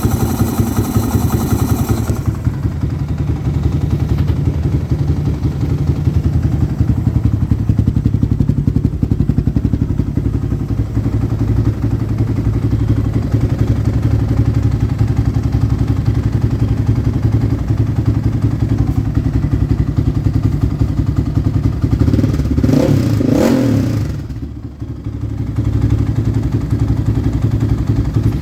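Yamaha Raptor 660 quad's single-cylinder four-stroke engine idling steadily through a White Brothers aftermarket exhaust. About 22 seconds in it is blipped for a short rev, then briefly drops in loudness before settling back to idle.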